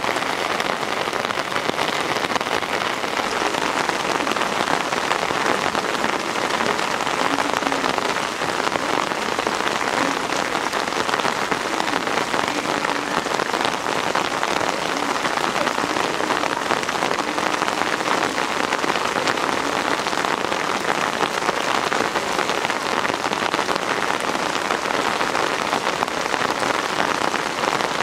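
Heavy rain pouring steadily, a dense even hiss of drops spattering on hard surfaces.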